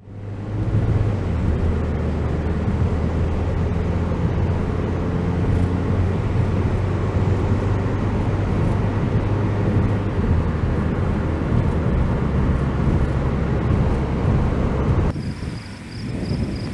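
Steady low drone of a car driving at a constant speed. About fifteen seconds in it cuts off abruptly to a quieter scene with a high, rapidly pulsing trill.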